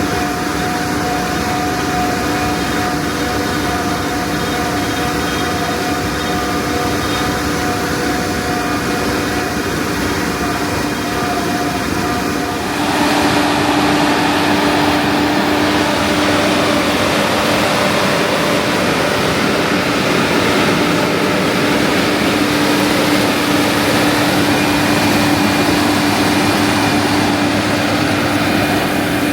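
Heavy diesel farm machinery running steadily under load; about halfway through the sound turns suddenly louder and rougher, with a steady low engine hum.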